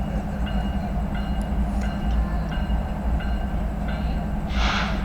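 Freight train passing with a steady low rumble. A short high tone repeats a few times a second over it, and a brief hiss comes about four and a half seconds in.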